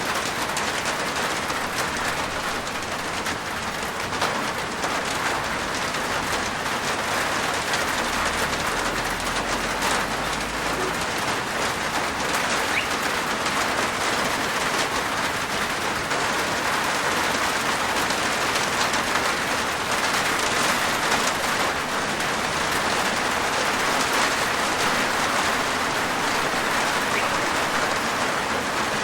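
Steady rain falling on a roof, a continuous patter of drops.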